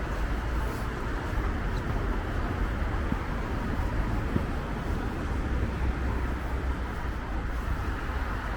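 Steady city street noise: a constant traffic rumble with an even wash of noise and no distinct events.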